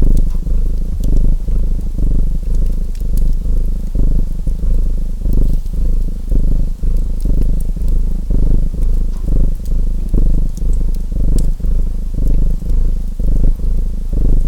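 Cat purring close to the microphone, a low rumble that swells and fades with each breath, with sparse fireplace crackles over it.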